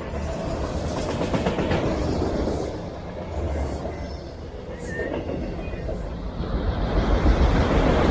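CSX freight train of loaded autorack car carriers rolling past, steel wheels rumbling and clicking over the rails.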